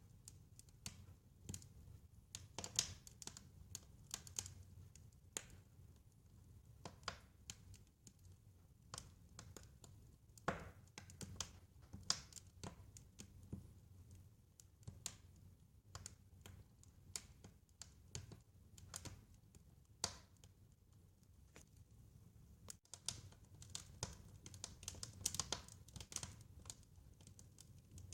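Wood fire crackling: irregular sharp pops and ticks, several a second at times, over a faint low steady rumble.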